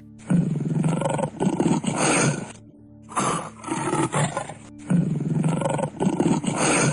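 A large animal roaring in three long bouts of about two seconds each, over background music with a steady low drone.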